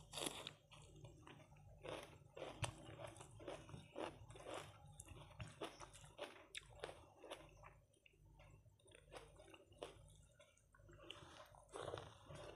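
Faint close-up eating sounds: a crunchy bite into a slice of raw onion at the start, then chewing with irregular wet mouth clicks and crackles.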